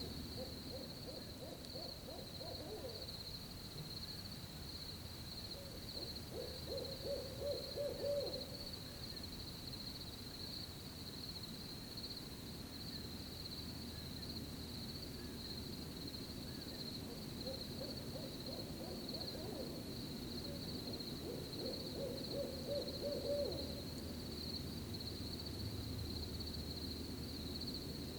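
An owl hooting in four drawn-out, quavering phrases: two in the first eight seconds and two more about two-thirds of the way through. Underneath, crickets chirr steadily at a high pitch.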